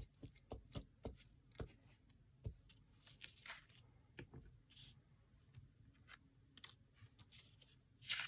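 Faint paper crafting handling at a desk: scattered light taps and clicks with a few brief paper rustles and swishes.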